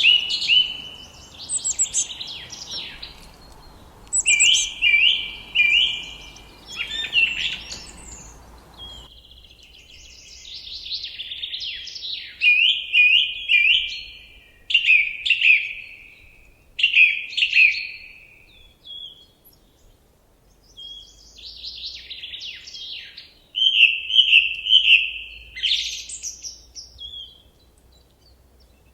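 Songbirds singing in short phrases of quick, repeated chirps with brief pauses between them. A faint background hiss under the song stops about nine seconds in.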